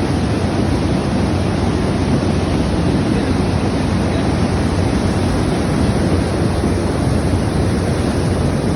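Rain falling steadily: a loud, even hiss with no change.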